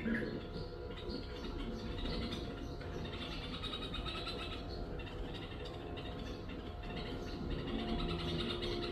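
Small birds chirping, with many short overlapping calls throughout, over a steady low hum.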